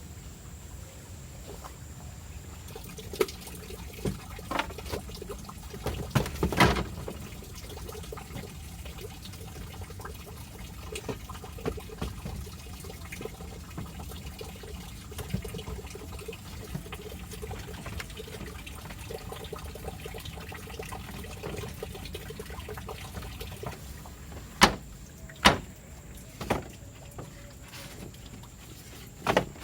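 Steady running water of a river trickling and flowing, with a few sharp knocks scattered over it: a cluster about three to seven seconds in and two loud ones near the end.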